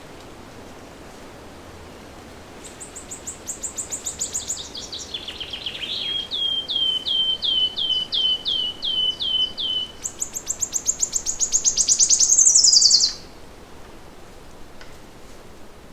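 A songbird sings one long song: a fast, high trill that drops in pitch, then a string of downslurred notes at about three a second, then another fast, high trill that grows louder and ends in a falling sweep before stopping abruptly. Faint steady forest background noise lies underneath.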